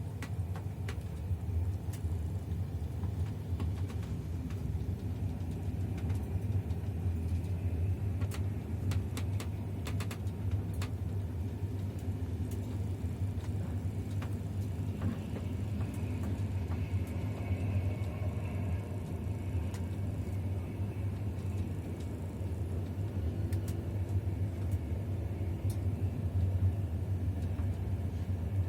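Passenger train running: a steady low rumble with scattered sharp clicks.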